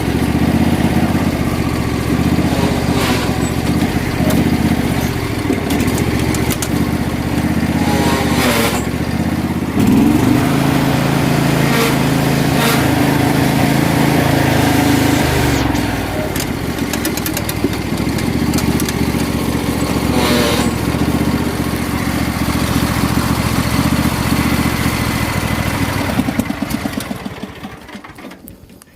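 Riding lawn mower's small engine running steadily, its pitch shifting a couple of times, then shut off and winding down to a stop near the end.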